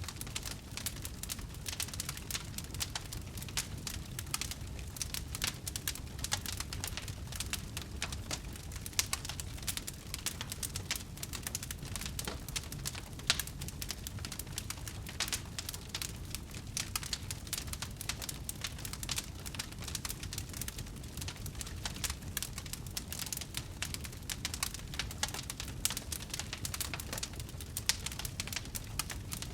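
Wood fire burning with dense, irregular crackling: many small sharp pops and snaps over a low steady rumble.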